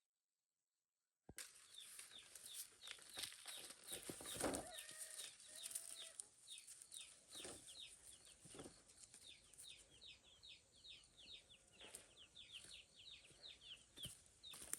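Chicks peeping in a flock: many short, high, falling peeps in quick succession, starting abruptly about a second in, with a few lower calls and soft knocks among them.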